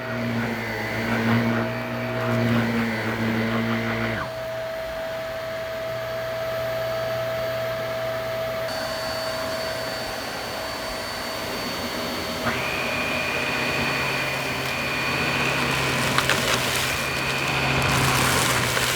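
Shark Navigator upright vacuum cleaner running over carpet: a steady motor hum whose pitch shifts abruptly about four seconds in and again around twelve seconds in, with a few short clicks later on.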